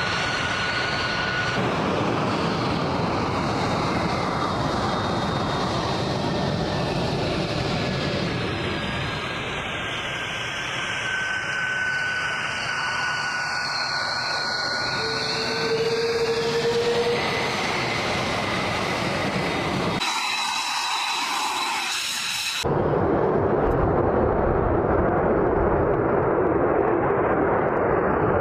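F-22 Raptor jet engines: a loud, steady jet roar with a faint whine that slowly falls and then rises. The sound breaks off abruptly about twenty seconds in, then comes back louder a couple of seconds later.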